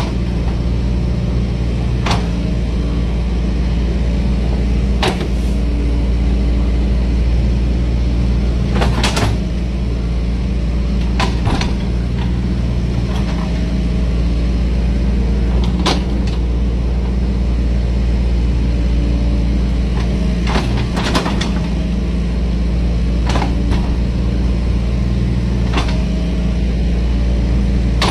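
Excavator's diesel engine running steadily, with sharp knocks and clanks at irregular intervals, about every two to three seconds, as it digs coal slag out of a barge's hold.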